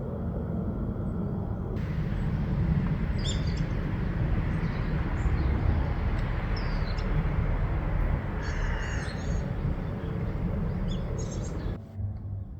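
Small birds chirping in short scattered calls over a steady low rumbling noise; the background noise changes abruptly twice, as at cuts between clips.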